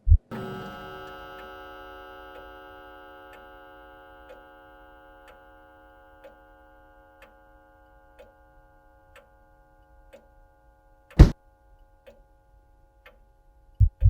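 A struck, bell-like tone with many overtones rings out just after the start and slowly dies away over about eight seconds, over faint ticks about once a second like a clock. One loud thud comes about eleven seconds in.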